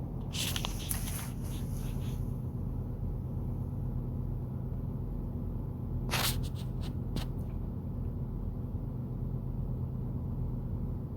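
A steady low hum from the semi-truck's idling engine, heard inside the cab. It is broken by two short clusters of clicks and rattles, in the first couple of seconds and again about six to seven seconds in.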